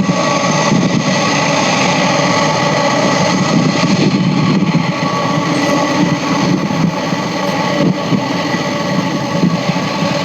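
Jet airliner engines running steadily, a loud even rush with a whine.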